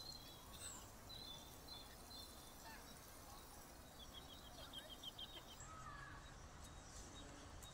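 Faint outdoor ambience with small birds chirping: scattered short, high chirps and, about four seconds in, a quick run of chirps.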